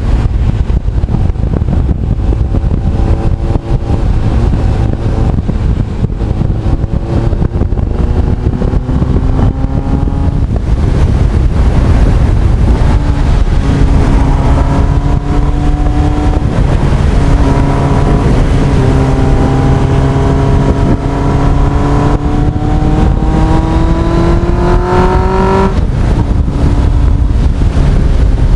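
Honda CB1300 Super Bol d'Or's inline-four engine pulling under load while riding, its note climbing steadily in pitch in two long pulls through the gears, over heavy wind rush on the microphone. Near the end the rising note drops away suddenly as the throttle comes off.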